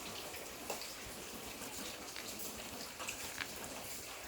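Steady pattering of water with small scattered drip-like ticks.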